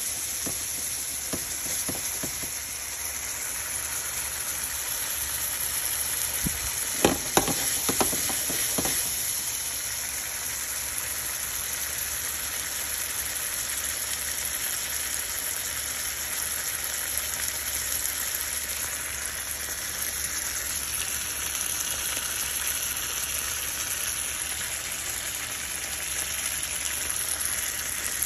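Flour-dusted grits patties frying in oil and butter in a skillet: a steady sizzle, with a few sharp clicks about seven to nine seconds in.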